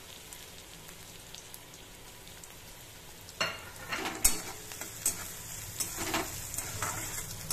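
Chopped onion and garlic sizzling steadily in hot oil in a kadai. About three and a half seconds in, a spatula starts stirring, with a run of scrapes against the pan.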